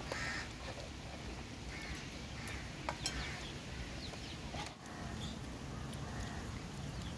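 Rural outdoor background noise with a few faint, short bird calls and occasional light clicks.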